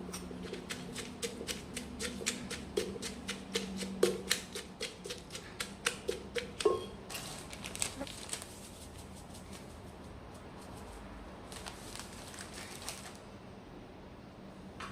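Rapid, regular tapping or clicking, about four to five sharp strokes a second, lasting about seven seconds and then stopping, followed by two short stretches of rustling noise.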